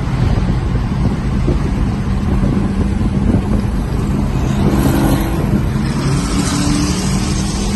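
Car engine running hard at speed, heard from inside the car with heavy road and wind rumble; a steady engine tone comes through more clearly about halfway through.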